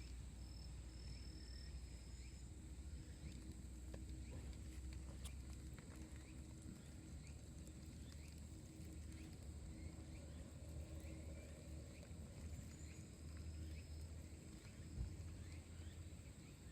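Wood campfire burning, with faint scattered crackles and snaps over a low steady rumble.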